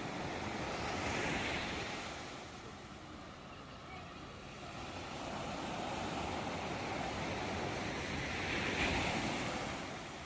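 Sea waves washing in, two swells of surf about seven seconds apart with a quieter lull between them.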